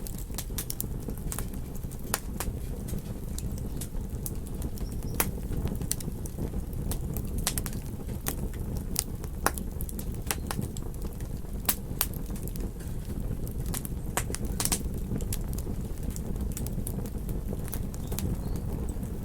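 Campfire crackling, with irregular sharp pops scattered throughout over a steady low rush.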